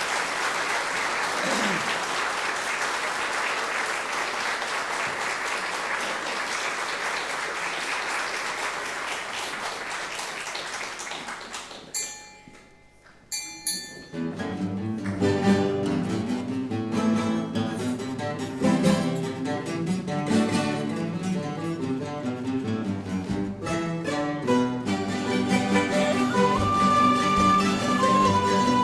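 Audience applauding, fading out after about eleven seconds. After a short pause, string music of plucked guitars starts up.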